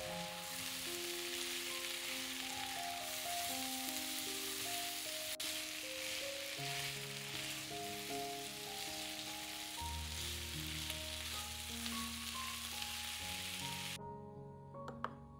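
Food frying in a hot pan, a steady sizzle that cuts off abruptly about a second before the end, with background music playing under it. A single knock sounds just before the end.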